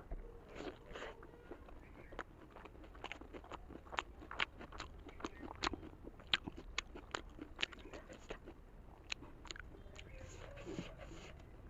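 Close-up chewing of a large steamed momo dumpling, with many quick wet mouth clicks and smacks, several a second.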